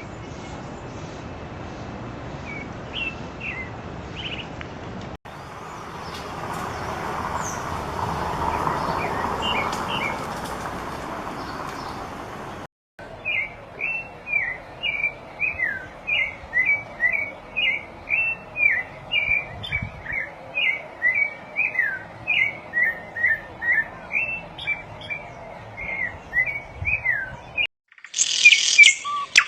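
Small songbirds chirping across several joined recordings. The first part is faint chirps over a steady rushing background; then a bird gives a long, rapid series of short, high chirps, about three a second; near the end a louder, higher song starts abruptly.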